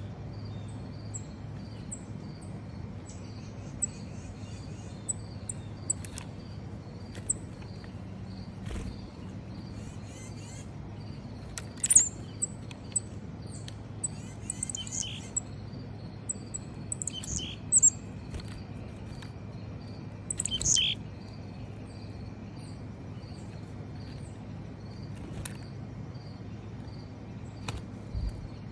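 Small songbirds chirping and calling, mostly short high chips, with a few louder calls partway through. Under them run a steady pulsing insect trill and a low hum.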